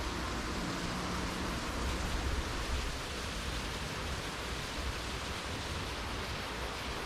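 Steady rushing of a flowing river, with an uneven low rumble underneath.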